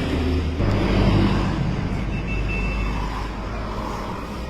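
A motor vehicle's engine running close by. It grows louder about half a second in, then eases off toward the end.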